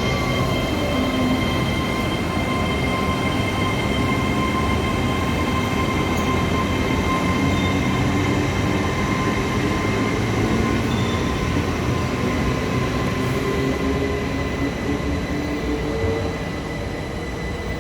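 A train arriving, running with a steady high whine over a low rumble, getting slightly quieter near the end.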